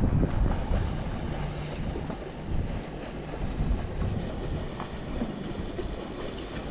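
Wind buffeting the microphone, a gusty low rumble, over the wash of water at the dock.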